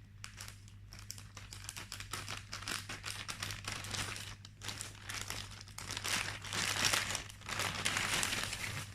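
Crinkly packaging from a delivered parcel being handled and opened, an irregular run of crackles that grows busier in the second half, over a steady low hum.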